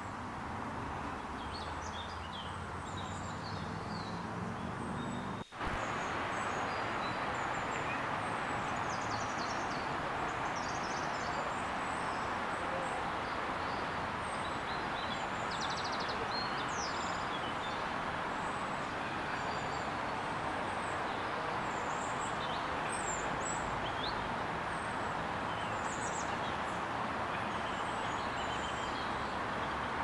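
Wild birds chirping and calling in many short, scattered notes over a steady rushing background noise. The sound briefly cuts out and changes about five and a half seconds in.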